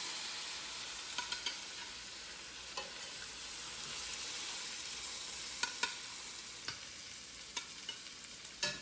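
Butter and avocado oil sizzling steadily in a skillet after frying chicken cutlets, with a few light clicks scattered through.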